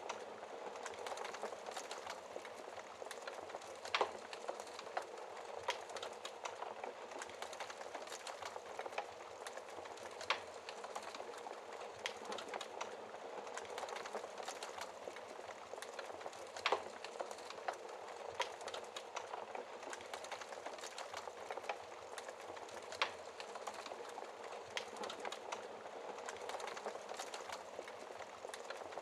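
Wood fire burning in a fireplace: a steady low hiss with frequent small crackles and a few louder pops scattered through.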